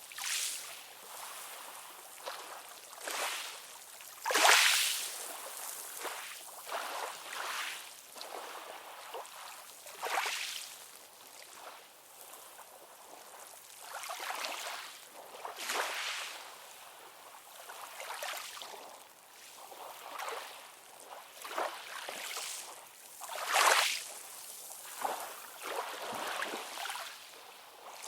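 Small sea waves lapping and splashing in irregular short splashes, with no deep surf rumble; the biggest splashes come about four and a half seconds in and near the end.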